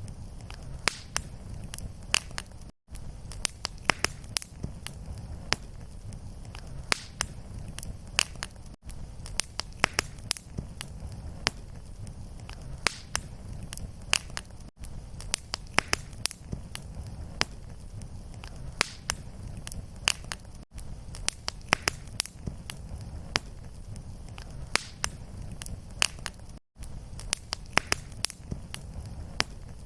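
Fireplace fire crackling: a steady low rumble of flame with frequent sharp pops and snaps. Every six seconds or so the sound drops out for a split second where the looped recording restarts.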